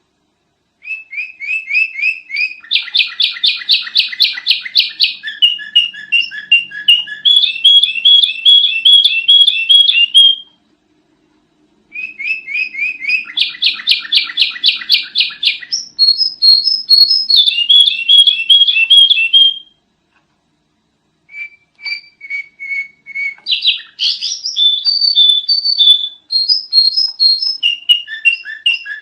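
Sooty-headed bulbul (kutilang) chirping in fast runs of repeated high notes, in three long bouts broken by short pauses about ten and twenty seconds in.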